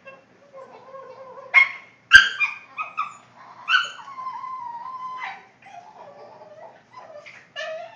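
Boston terrier vocalizing: drawn-out whining moans that waver up and down in pitch, broken by a few sharp yelps about two and four seconds in.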